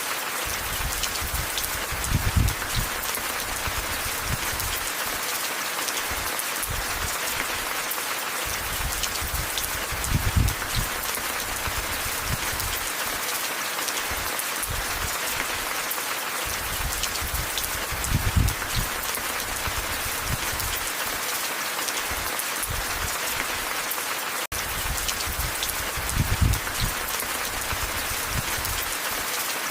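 Steady rain falling, a dense hiss full of fine drop ticks, with a low rumbling swell that comes back about every eight seconds. The sound cuts out for an instant about twenty-four seconds in.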